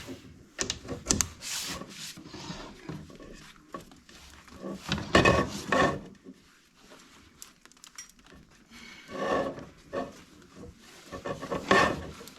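Chimney sweep's brush scraping and rubbing against the inside of the chimney flue in irregular bursts as it is pushed up on its rods.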